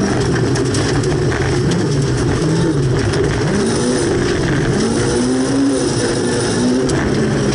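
Volvo 240 rally car's engine running hard, heard from inside the cabin. Its pitch dips and climbs again several times through a corner, over steady gravel and road noise with a few sharp clicks.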